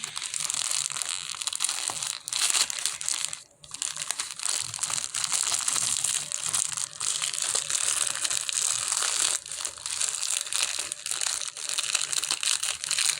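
Gift wrapping crinkling and rustling steadily as a present is handled and opened, with a brief pause about three and a half seconds in.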